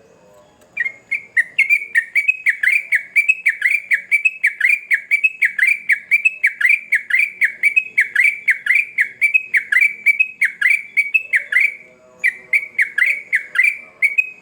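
Yellow-vented bulbul (trucukan) singing a long run of quick repeated notes, each falling sharply in pitch, about three a second, with a brief pause near the end.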